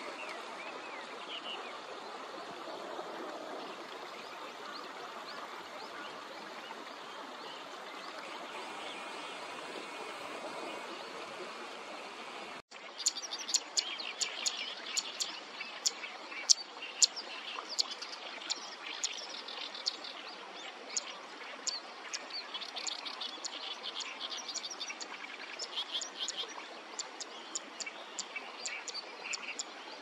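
Wild birds singing over a steady rushing background. About halfway through the sound changes abruptly to a dense run of sharp, high chirping notes that goes on to the end.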